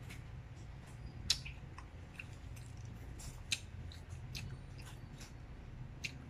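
Close-up chewing of juicy fresh pineapple: wet mouth clicks and smacks, scattered and irregular, two of them louder, over a low steady hum.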